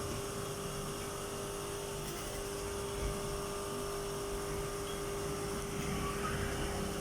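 Industrial sewing machine motor humming steadily with a constant tone, with no distinct stitching rhythm.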